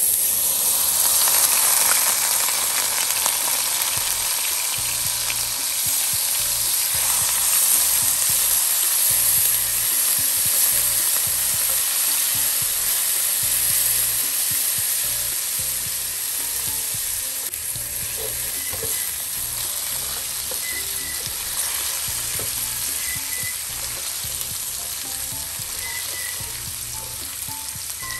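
Split moong dal hitting hot ghee with cumin seeds and frying: a loud sizzle that starts suddenly and slowly dies down, with a spatula stirring through the lentils.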